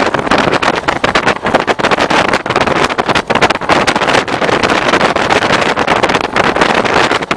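A DEMU diesel-electric passenger train running at speed, a loud rushing noise thick with rapid, irregular clatter.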